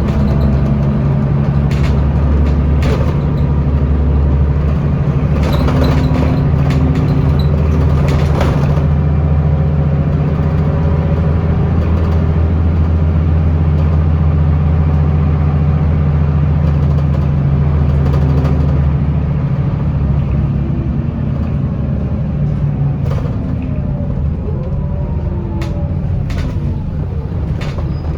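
Scania L94UB bus with a ZF automatic gearbox heard from inside the cabin: a steady, loud low engine drone as it drives along, easing off a little about twenty seconds in. Short clicks and rattles from the body come in the first part.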